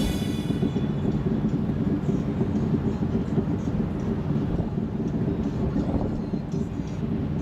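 Steady low rumble of a Jeep on the move: engine and tyre noise. Music from the previous section cuts off within the first second.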